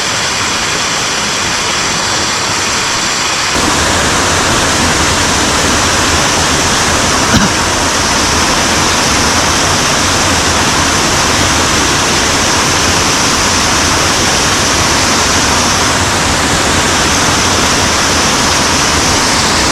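Rushing water of a mountain stream, a steady loud noise that grows fuller and louder about three and a half seconds in.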